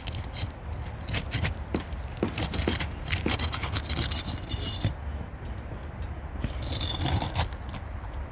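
Metal pry bar scraping and ticking against asphalt shingles as it is worked under them to break the sealant strip and free a nail, in an irregular run of short scrapes and clicks.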